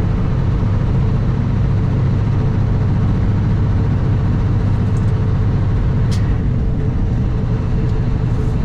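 Kenworth W900 semi truck's diesel engine running steadily under way, a loud, even drone heard from inside the cab, with a sharp click about six seconds in.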